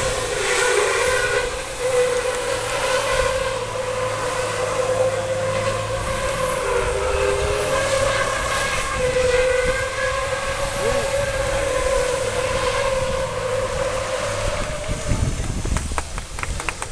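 Truck air horns blaring in long sustained blasts, several pitches overlapping and wavering for about fifteen seconds, then fading as scattered clapping starts near the end.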